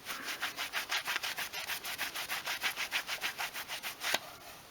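Cloth with cutting paste rubbed quickly back and forth over a plastic number plate light lens, about five or six strokes a second, hand-polishing the yellowing off it. The rubbing stops a little after four seconds with a single sharper tap.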